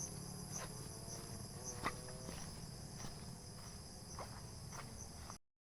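Crickets and other night insects trilling steadily, with a few faint soft knocks; the sound cuts off suddenly near the end.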